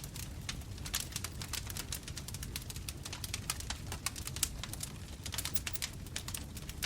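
Bonfire burning: wood crackling and popping in many quick, irregular snaps over a steady low rumble of flames.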